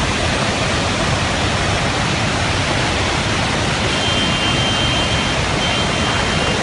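Floodwater rushing past in a steady, even rush of noise. A faint high tone joins about four seconds in.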